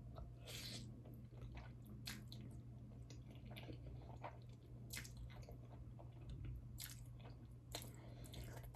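A person chewing spaghetti bolognese close to the microphone: quiet, irregular wet mouth clicks and squelches.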